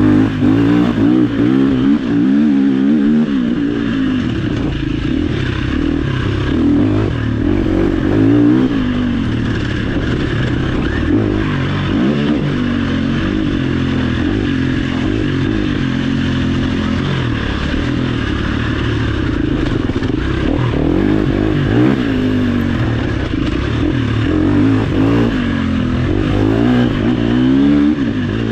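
Off-road dirt bike engine being ridden hard along a trail, revving up and dropping back over and over as the throttle opens and closes.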